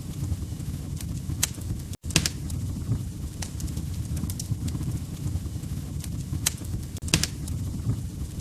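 Log fire crackling: a steady low rumble of flames with sharp, irregular pops of burning wood, the loudest just after two seconds and about seven seconds in. The sound cuts out for a split second about two seconds in.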